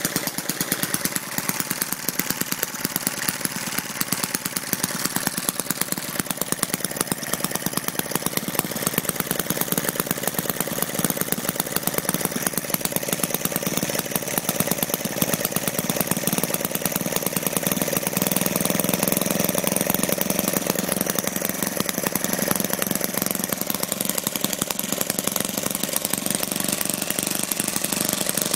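Small model internal combustion engine, a Jerry Howell Powerhouse, running with a rapid, even string of firing knocks. About two-thirds of the way through it grows a little louder and fuller.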